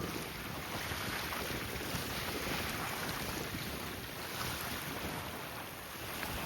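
Strong wind buffeting the microphone in a steady rumbling rush, over the wash of wind-driven waves.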